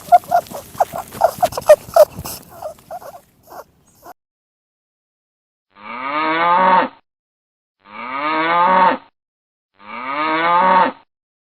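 A horse's whinny trails off in the first two seconds, then a cow moos three times, each moo about a second long and rising in pitch.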